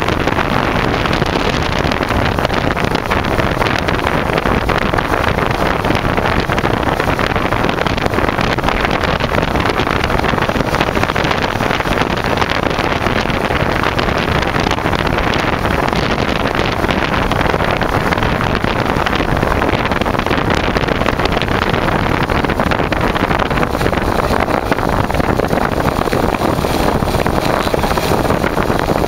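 Kawasaki Zephyr 550's air-cooled inline-four engine running steadily as the motorcycle rides along, mixed with wind buffeting the handlebar-mounted microphone.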